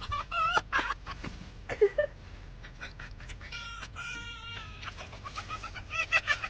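Tame foxes being tickled, giving a string of short, high-pitched laughing calls, with a couple of longer calls in the middle.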